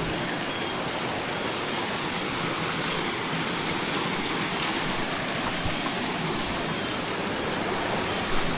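Creek water rushing and falling over rocks: a steady, unchanging rush.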